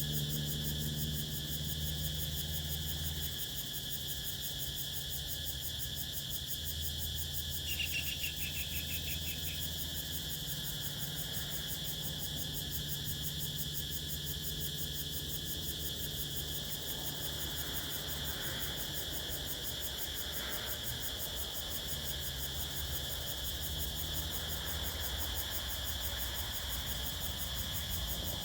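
Evening chorus of crickets chirring steadily and high-pitched, with a short, rapid trill about eight seconds in.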